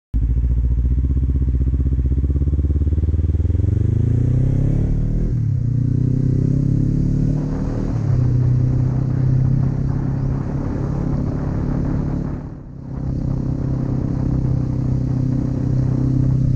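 Kawasaki Z400's parallel-twin engine accelerating under way: its pitch climbs for about four seconds, drops at an upshift about five seconds in, climbs again and holds steady, with a brief dip near the end.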